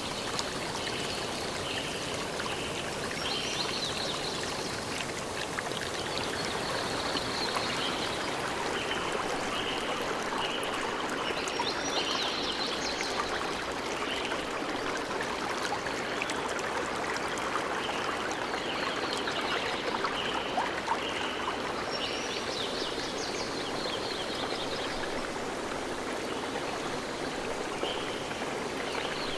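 Forest stream flowing steadily, with groups of short, high chirping calls repeating every few seconds over the water.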